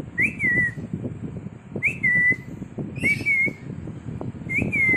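A person whistling a short call four times, each a quick upward slide into a falling, held note, to call a pet lovebird over. Faint rustling and small knocks underneath.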